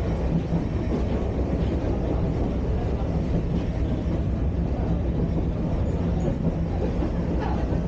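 Sagano Romantic Train running on its track, heard from inside the carriage: a steady low rumble of the ride with a constant low hum.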